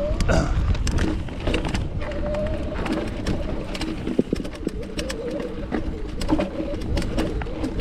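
Mountain bike riding over rocky trail: steady wind rumble on the microphone, with frequent rattling clicks and knocks from the bike jolting over rock. A low wavering hum comes and goes throughout.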